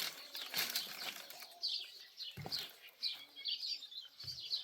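Small birds chirping over and over in short, high, falling notes, with a burst of rustling in the first second and two dull thumps in the second half.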